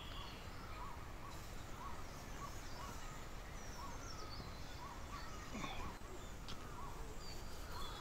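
Faint forest ambience with a bird repeating a short call about twice a second through the first few seconds, and other distant bird notes scattered above it.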